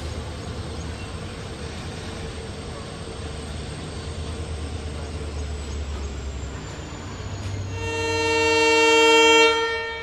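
Passenger train running slowly, a steady low rumble and rattle of the coaches. Near the end the locomotive horn sounds a loud multi-tone chord for about two seconds, swelling and then cutting off sharply.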